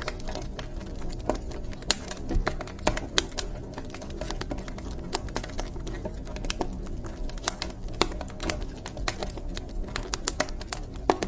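Wood fire burning in a fireplace, crackling with irregular sharp clicks and a few louder pops over a steady low rumble.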